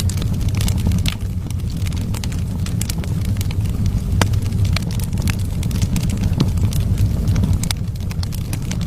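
Wood fire in a fireplace crackling: irregular sharp pops and snaps of burning wood over a steady low rumble of flames.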